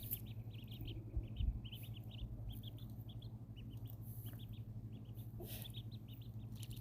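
Ducklings peeping: many short, high chirps in quick runs throughout, over a steady low hum.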